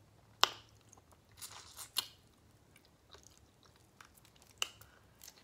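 Close-miked eating sounds: steamed shrimp being chewed, with a few scattered sharp clicks and crackles as the shrimp shell is peeled apart by hand, the loudest about half a second in.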